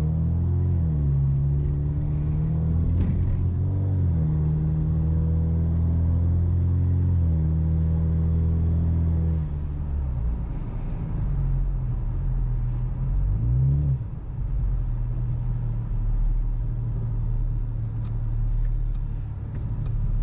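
Ford Mustang EcoBoost's turbocharged four-cylinder with an aftermarket full exhaust, heard inside the cabin, droning under acceleration, its pitch climbing with a break about three seconds in. About nine seconds in it drops to a lower, steadier rumble, with a brief rise in revs around fourteen seconds.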